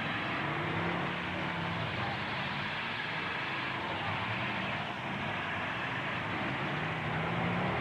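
Demolition-derby truck engines running, a steady rumble of several engines with pitch rising and falling a little.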